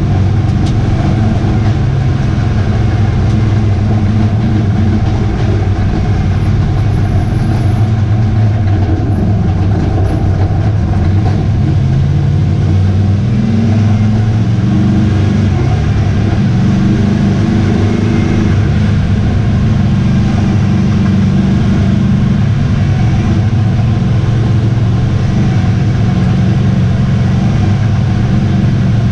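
Eight-cylinder pro truck racing engine running hard and steady under race load. It is loud and unbroken, with its pitch shifting a little about halfway through.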